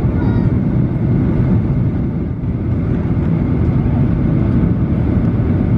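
Steady cabin noise inside a Boeing 737-800 in flight: the engines and the airflow over the fuselage make a deep, even rumble.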